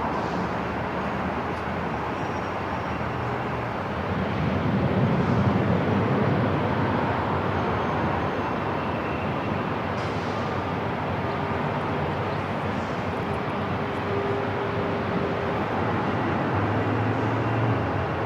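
Airport terminal ambience: a steady, dense rumble of noise with faint humming tones, swelling for a couple of seconds about four seconds in.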